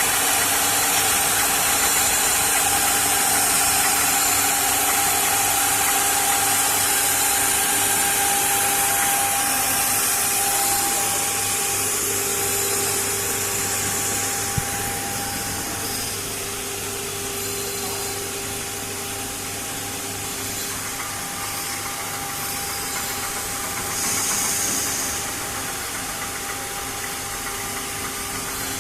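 A 1325 CNC router running with its 9 kW spindle turning fast: a steady machine whine with a high hiss that fades about halfway and swells back briefly near the end. There is a single sharp click about halfway through.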